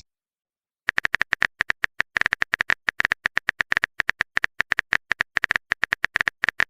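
Keyboard typing clicks, a quick irregular run of about eight to ten taps a second. They start about a second in and pause briefly near two seconds.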